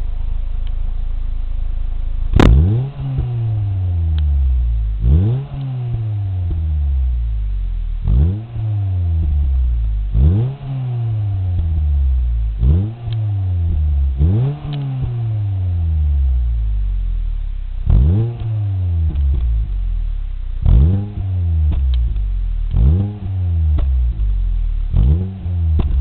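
Ford Fiesta ST's engine through a Fox stainless-steel cat-back exhaust, idling steadily and then blipped about ten times, each rev rising quickly and falling back to idle. A sharp click comes at the first rev.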